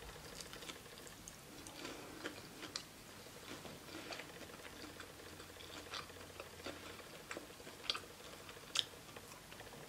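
A person biting and chewing a breaded plant-based chicken tender: faint, irregular small clicks and smacks of chewing.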